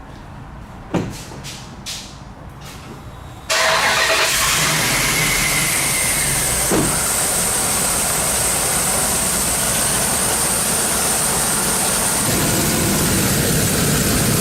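Two knocks, then the 2004 Dodge Ram's 5.7L Hemi V8 starts about three and a half seconds in and runs steadily at idle. The mechanic hears exhaust leaks in its running, which he traces to broken exhaust-manifold bolts on both sides.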